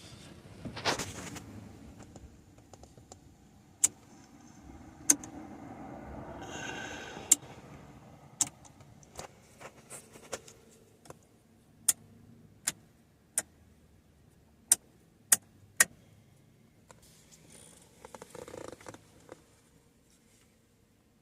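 A series of separate sharp clicks at irregular intervals, about fifteen in all, with softer rustling handling noise about six seconds in and again near the end.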